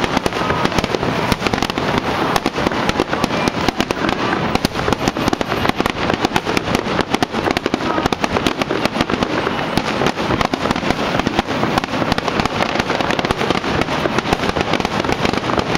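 Aerial fireworks display: a continuous barrage of bangs and crackles, many a second, from shells bursting overhead.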